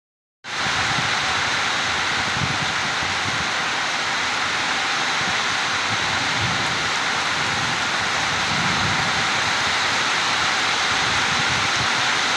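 Steady heavy rain pouring down, an even hiss that comes in about half a second in and holds level.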